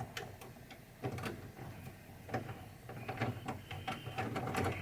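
Scattered clicks, scrapes and short rattles of small screws and a screwdriver being worked into the wooden mounting of a pinball machine's head mechanism, coming thicker in the second half, over a faint steady hum.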